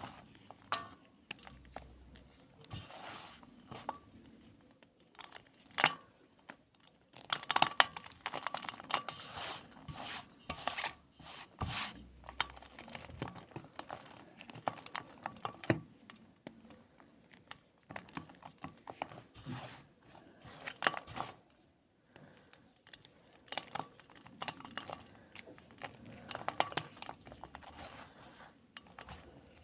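Black gym chalk being crushed, crumbling with crunchy crackles in irregular bursts. The crunching is thickest about a third of the way in and again near the end.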